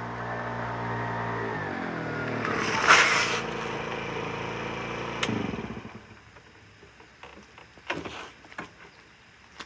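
50cc four-stroke scooter engine running, its speed dropping back to idle about two seconds in, with a brief loud rushing noise near three seconds. A click just past five seconds, then the engine shuts off, followed by a few faint knocks.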